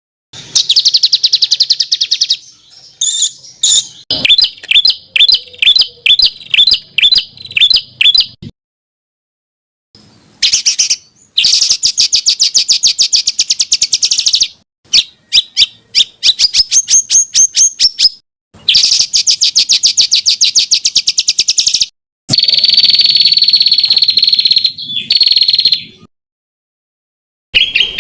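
A songbird singing a richly varied song of high, rapid trills and fast runs of repeated notes, in bursts broken by a few abrupt silent gaps. It is a masteran tutor recording used to teach caged songbirds new phrases.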